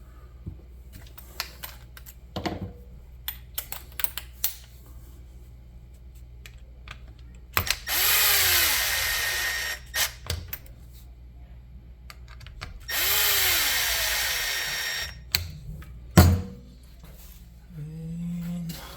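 A power drill run twice, about two seconds each, spinning up at the start of each run, with sharp clicks and knocks of metal parts and tools being handled between the runs.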